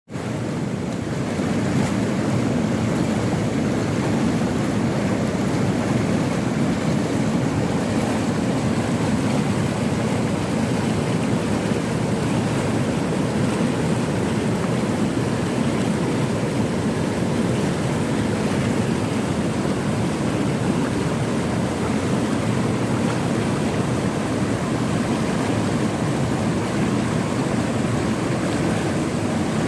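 Fast-flowing river rushing in a steady, full roar of water. The sound fades in over the first second.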